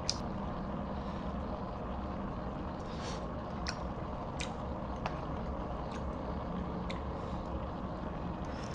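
A steady low background hum with a few light clicks and taps scattered through, about one a second, from utensils knocking on the plastic instant hot pot container as the food is checked.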